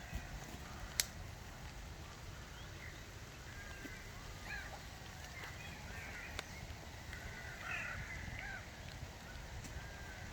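Birds calling in short chirps and calls throughout, over a steady low rumble, with one sharp click about a second in.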